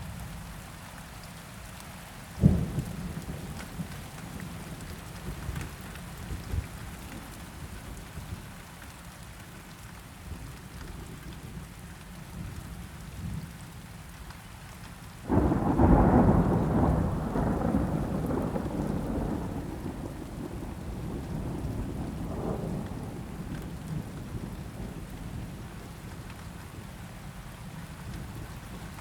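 Steady rain with thunder: a short, sharp clap about two and a half seconds in, then a loud thunderclap about fifteen seconds in that rumbles on and slowly fades.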